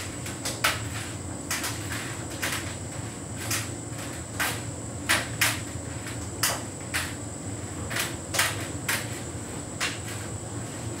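Hotpoint heat pump tumble dryer running with a steady hum, with irregular sharp knocks, roughly one or two a second, as the load tumbles in the turning drum.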